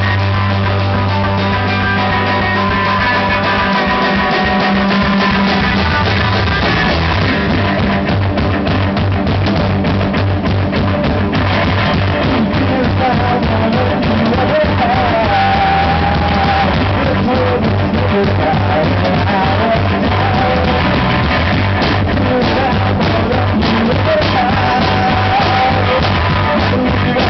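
Live punk-rock band playing loud, with distorted guitar, bass and drums, and singing over it. It opens on a held low chord, then the drums kick in with a fast beat about four seconds in.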